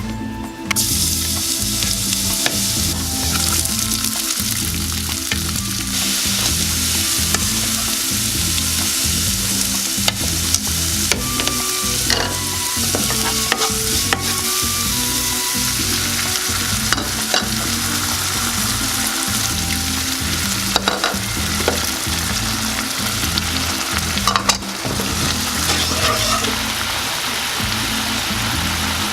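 Food sizzling in hot oil in a wok as it is stir-fried. The sizzle starts abruptly just under a second in, and a spatula clicks and scrapes against the pan now and then.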